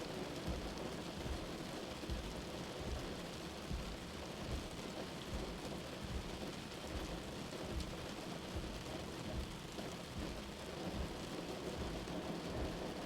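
Heavy rain drumming steadily on a moving car, with a low rumble underneath throughout.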